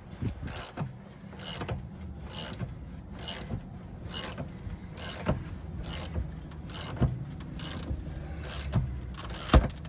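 Tire bead breaker being worked in regular strokes against the bead of a large tractor tire, about one stroke every three-quarters of a second over a low steady hum, with a sharp metallic knock near the end.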